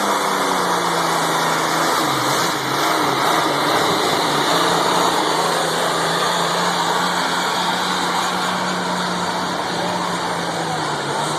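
International diesel tractor engine running hard while pulling a weight sled, its note holding steady and easing down near the end.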